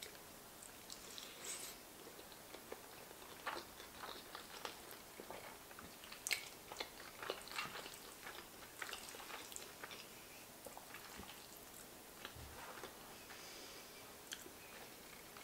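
Quiet, close-up chewing of a mouthful of beef stroganoff, soft egg noodles and braised beef in a creamy sauce, with many small wet mouth clicks scattered through it that thin out near the end.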